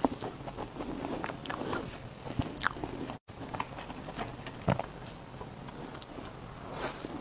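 Close-up eating of strawberry cake: irregular biting and chewing clicks and smacks. The sound breaks off completely for a moment about three seconds in.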